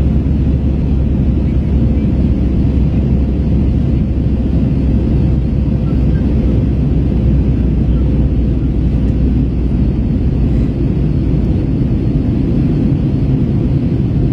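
Airbus A321 airliner in flight, heard from inside the cabin: a steady low rumble of jet engines and rushing air that does not change.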